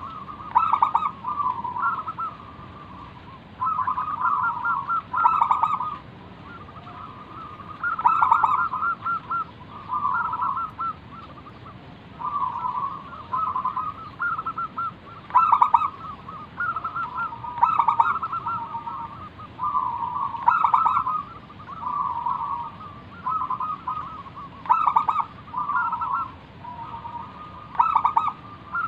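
Zebra dove (perkutut) singing its cooing song, phrase after phrase of quick, rolling notes with a break of a second or so between them.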